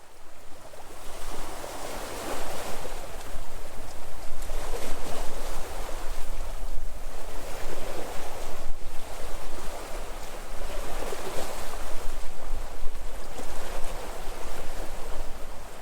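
Sea waves breaking and washing in, one surge after another every two to three seconds, over a low steady rumble.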